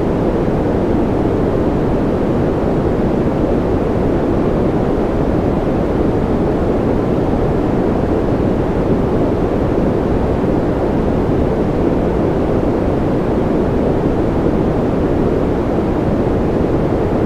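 Steady generated sleep noise: a deep, even rush weighted toward the low end rather than a bright hiss, with no changes in level or pitch.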